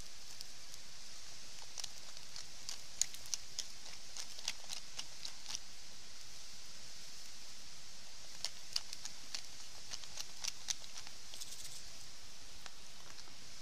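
Wood campfire crackling, with irregular sharp pops coming in two flurries over a steady hiss.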